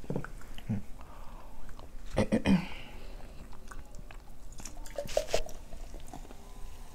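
Close-miked eating: biting into food and chewing, with short wet mouth clicks, the loudest cluster about two seconds in and another just after five seconds.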